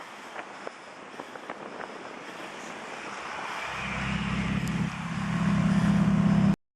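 Street traffic noise with a few light clicks, then a Ferrari V8 engine growing louder from about halfway in. It runs at a fairly steady deep pitch, is loudest near the end, and then cuts off abruptly.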